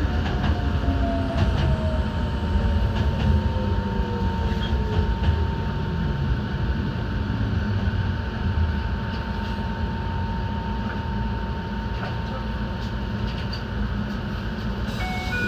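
Enoden electric train running, heard from the cab: a steady low rumble of wheels and running gear with a constant high tone over it. A motor whine falls in pitch over the first several seconds. A two-tone electronic chime starts right at the end.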